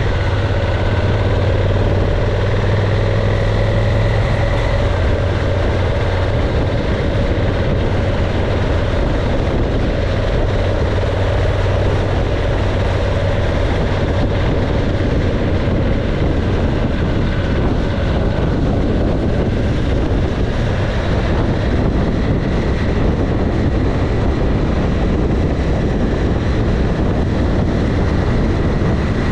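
Motorcycle running at speed, a steady engine drone under heavy wind and road noise, the engine pitch drifting slightly with the throttle.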